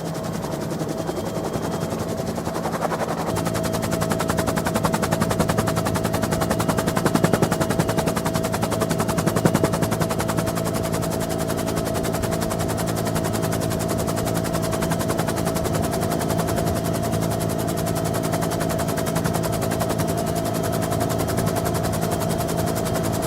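UH-1N Twin Huey helicopter heard from on board: fast, rhythmic main-rotor blade chop over a steady twin-turbine whine and engine drone. About 3 s in the whine steadies and grows stronger, and the sound swells louder for a few seconds before settling.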